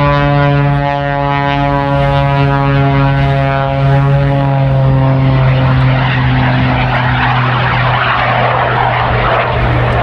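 Propeller aircraft engine running loud and steady, its drone sagging slightly in pitch, then turning rougher and noisier from about six seconds in as the plane passes.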